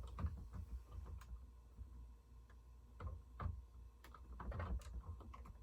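Faint, irregular clicks and light knocks of plastic Lego pieces being handled as a piece is pushed through the wing's connecting holes.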